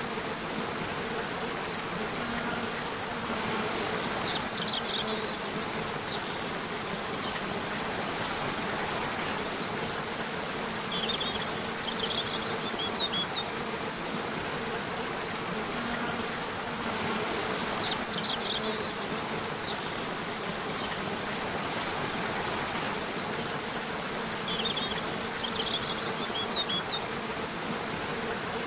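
Nature-sounds ambience: a steady rushing hiss with a faint low hum, and short high bird chirps in small clusters every six to seven seconds.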